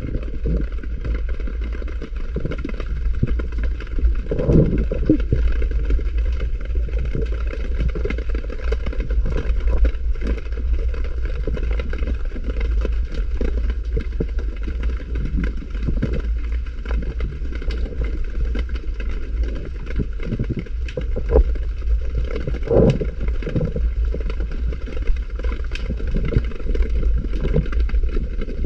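Underwater ambience recorded through a camera housing during a dive: a steady low rumble with a constant fine crackling of clicks, and a couple of brief louder swells.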